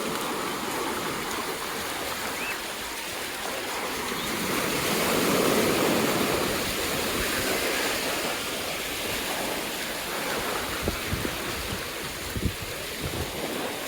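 Sea surf washing onto the beach, a wave swelling and breaking about five seconds in. A few short low thumps come near the end.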